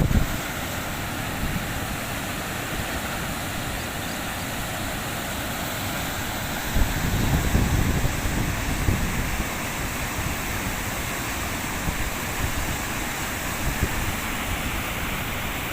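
Floodwater rushing in a steady, even roar, with low buffets of wind on the microphone about seven to nine seconds in.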